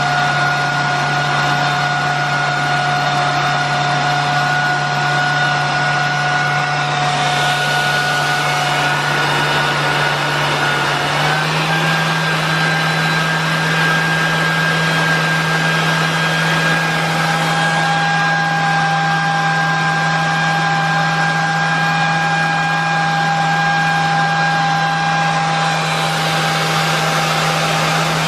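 Miele S8310 (C3 Complete Powerline) canister vacuum's 2200-watt motor running steadily during an airflow test: a steady whine over a rush of air. About eleven seconds in the whine steps up slightly in pitch, and the airy hiss turns brighter and duller a few times.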